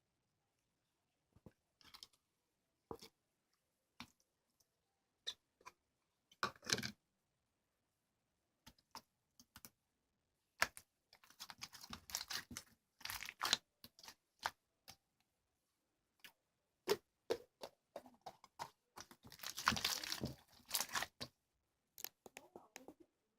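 Hands squishing and pressing a mixed slime: scattered soft clicks and pops, building to denser stretches of crackling a little after ten seconds in and again around twenty seconds.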